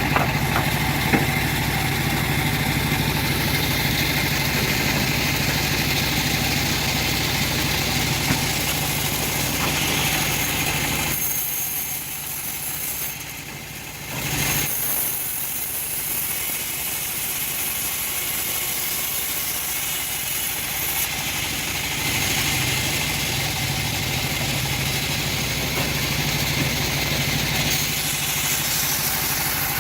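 Engine of a homemade bandsaw sawmill running steadily, dipping in level for about three seconds midway before picking up again.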